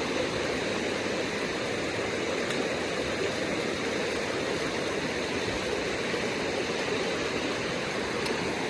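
Small rocky stream flowing steadily, a constant rush of water.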